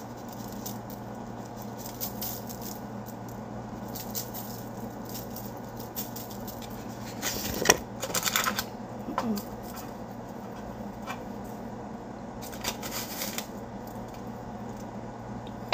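Seasoning shaker being shaken over potatoes in two short rattling bursts, about halfway through and again near the end, over a steady low hum.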